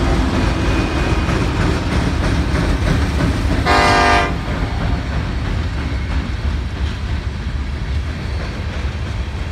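Freight train of covered hopper cars rolling past with a steady low rumble of wheels on rail. A short horn blast sounds about four seconds in.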